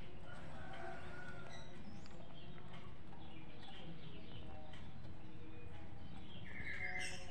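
Faint birds chirping over a steady low background, with short scattered calls and a brief higher call near the end.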